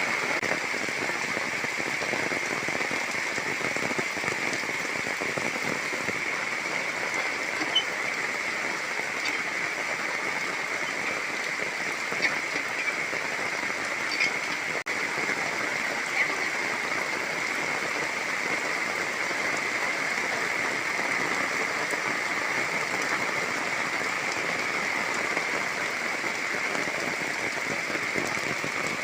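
Heavy rain falling steadily, an even hiss with a few sharp ticks of single drops here and there.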